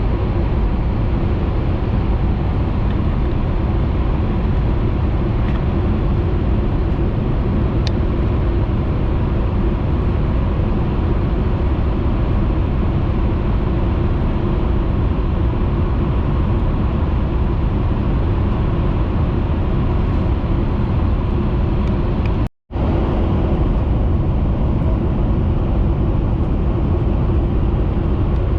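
Steady running noise of a Tohoku Shinkansen Hayabusa train at speed, heard inside the passenger cabin: an even rumble with no change in pitch. About two-thirds of the way through, the sound cuts out for a fraction of a second.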